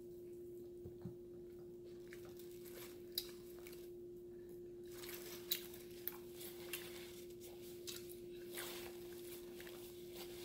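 Faint chewing of a mouthful of hamburger, with scattered small wet clicks and smacks, over a steady low hum.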